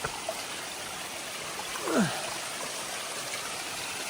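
Steady rush of running water from a mountain stream cascading down the rocky trail. About two seconds in, a short sound falls steeply in pitch over it.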